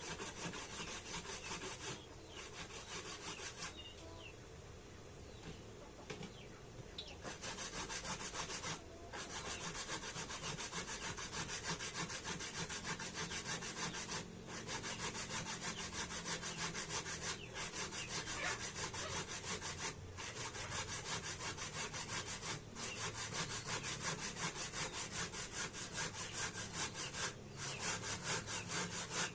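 Fast, rhythmic scraping of food being rubbed back and forth over a hand grater, easing off briefly a few seconds in.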